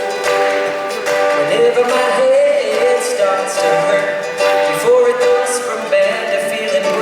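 Live acoustic band music: a voice singing with sustained, gliding notes over plucked string instruments.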